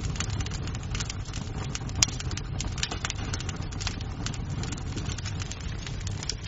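Wood fire crackling in a fireplace: a steady low rumble of flames with frequent sharp pops and snaps of burning wood, one louder pop about two seconds in.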